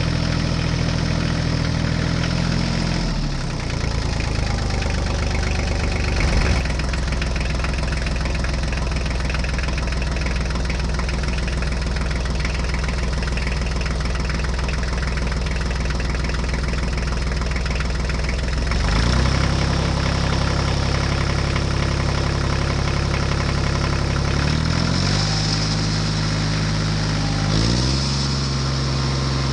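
Tractor engine sound running steadily. It drops in pitch a few seconds in, rises again about two-thirds of the way through, and shifts pitch twice more near the end.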